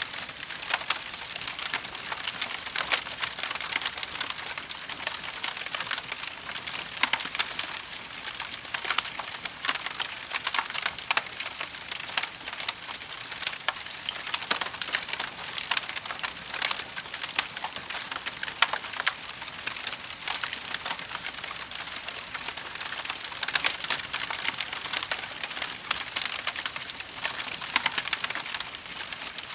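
Bonfire of burning wood crackling steadily, with dense small crackles and frequent sharper pops and snaps.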